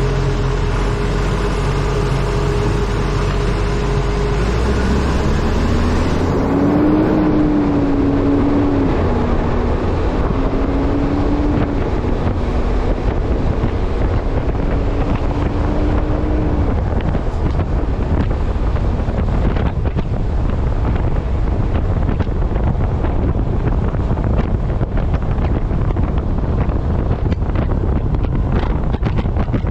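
Heavy wind noise on a microphone mounted on the front of a moving International Acco truck, with the truck's running underneath as a low rumble. From about five seconds in, a tone rises and wavers for about ten seconds before fading.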